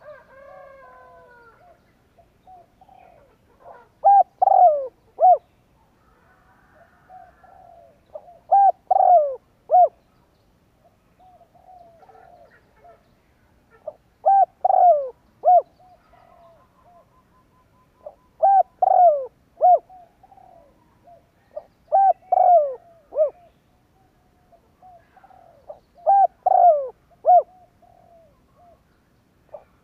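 Spotted dove cooing: phrases of three or four coos, each note with a quick upward hook, repeated about every four seconds, with fainter coos and chirps between. It is the male's challenge song used to provoke wild doves.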